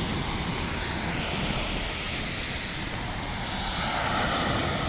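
Traffic driving through standing floodwater: a steady rush of tyre spray and engine noise that swells a little near the end.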